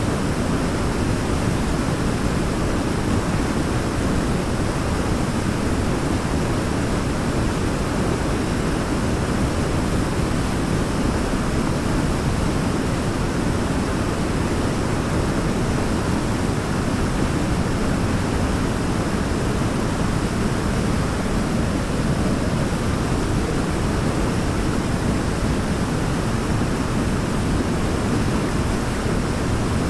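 Waterfall: a steady, unbroken rush of falling water, deep and full in tone.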